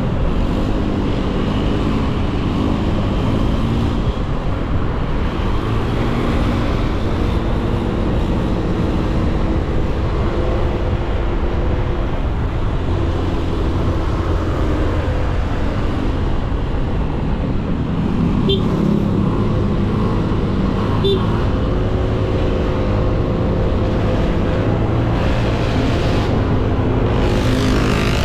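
Motorcycle engine running on the road with wind and road noise, heard from a camera on the bike; the engine note rises and falls with the throttle. Two short clicks come about two-thirds of the way through.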